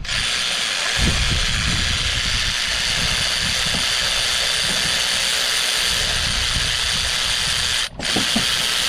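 Steady, fast mechanical clicking and whirring from a tool running continuously, breaking off for a moment near the end.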